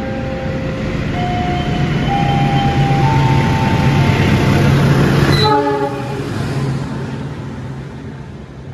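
A diesel-electric locomotive hauling a passenger train passes close by. Its low engine drone and the rumble of wheels on rail build to a peak about five seconds in. The drone drops away as the locomotive goes by, leaving the quieter, fading rumble of the coaches rolling past.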